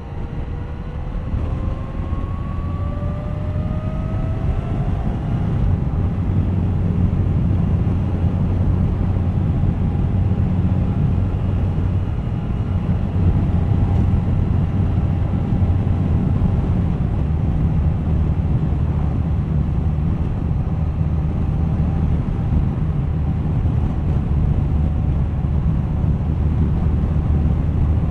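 Suzuki GSX1250FA motorcycle's inline-four engine pulling hard as the bike accelerates, its pitch rising over the first few seconds, then running steadily at cruising speed.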